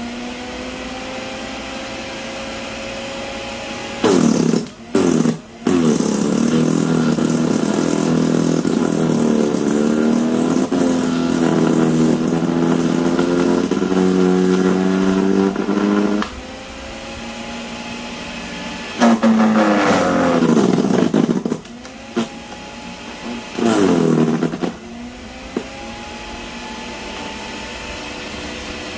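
Sun Joe CJ601E 14-amp electric wood chipper running steadily, then growing loud and dropping in pitch each time it is loaded with branches as it chips them, recovering its speed in between. One long stretch of chipping comes in the first half, followed by several shorter bursts and a final one near the end.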